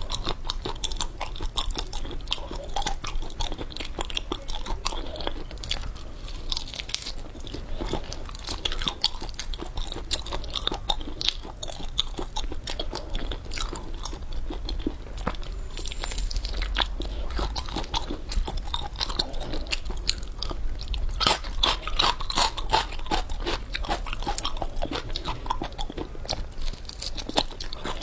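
Close-miked chewing and crunching of food, a continuous run of crisp crackles and bites.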